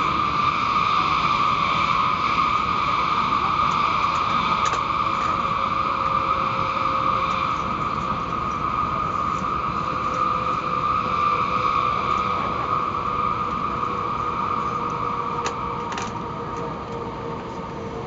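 Steady running noise of a Shinkansen bullet train heard inside the passenger car: an even rushing hiss with a faint steady hum under it. It grows gradually quieter through the second half, with a few faint clicks.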